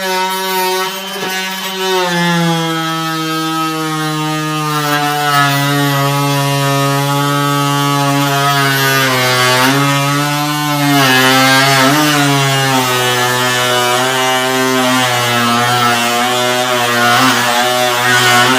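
An electric power tool's motor running without a break, its pitch sagging slowly, with brief dips about ten and twelve seconds in.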